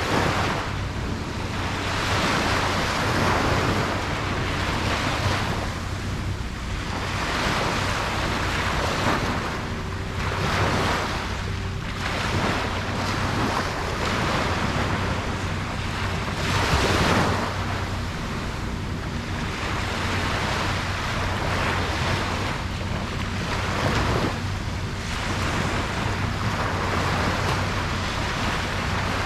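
Ocean waves breaking and washing up on a beach, the surf swelling and easing every few seconds.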